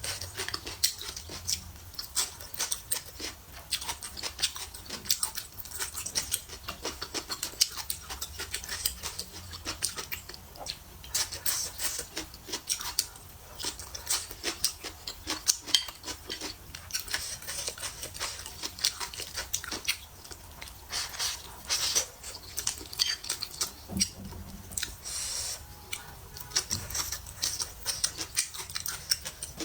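A person chewing braised pig's trotters close to the microphone: a dense, irregular run of clicks and mouth noises.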